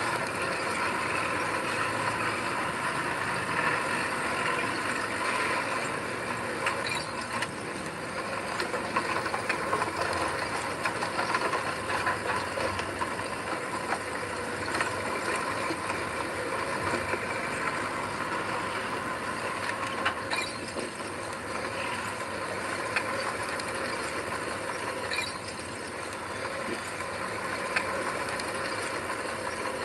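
Heavy diesel earthmoving machinery running steadily, with metallic rattles and occasional sharp clanks.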